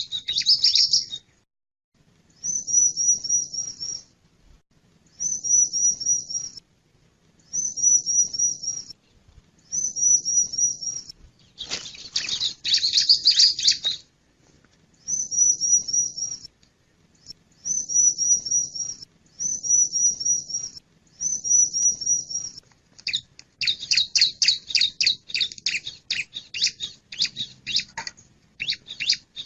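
Male bar-winged prinia (ciblek) calling: short phrases of four or five quick, high notes repeated every two to three seconds, with longer, faster chattering bursts about twelve seconds in and again over the last few seconds.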